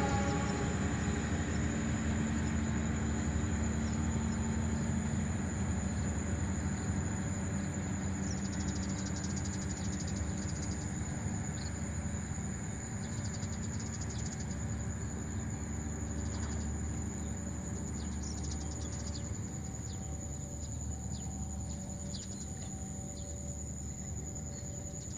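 Distant passenger train rumbling as it moves away, the sound slowly fading. Faint bird chirps come in over the rumble in the later part.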